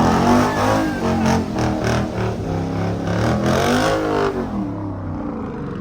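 A car engine revving hard, its pitch rising and falling several times, with a run of sharp crackles through the middle; it eases off about four seconds in.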